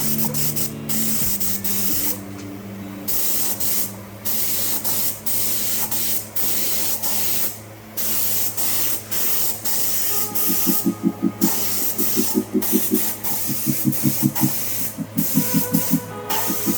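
Airbrush spraying paint in short hissing bursts, switched on and off about once a second, over a steady low hum. From about ten seconds in, a fast rhythmic pulsing comes and goes in short runs.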